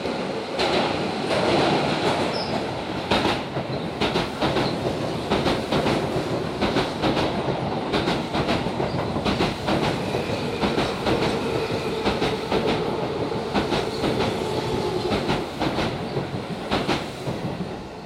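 Keio Line electric train running past at close range, its wheels clacking over the rail joints again and again over a steady rumble.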